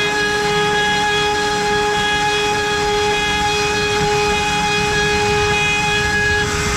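CNC router's spindle, running at 24,000 rpm with an 8 mm cutter, milling wood: a steady, high whine over the rough noise of the cut, dipping slightly near the end.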